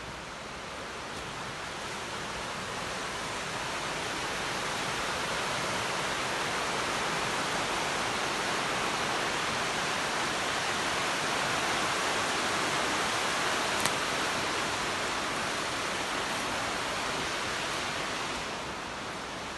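Rushing water, like a stream or small waterfall, a steady hiss that grows louder and then fades, with a single sharp click about two-thirds of the way through.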